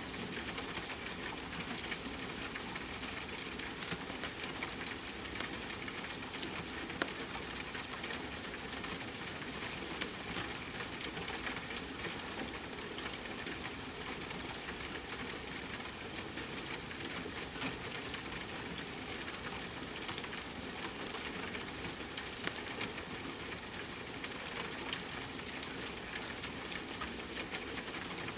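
Steady rainfall mixed with a crackling fireplace: an even hiss dotted with many small, sharp pops and ticks.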